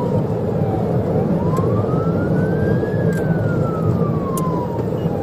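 Police car siren in a slow wail, its pitch falling, rising and falling again, over loud steady road and engine rumble of a patrol car driving at highway speed in a pursuit. A few short clicks sound through it.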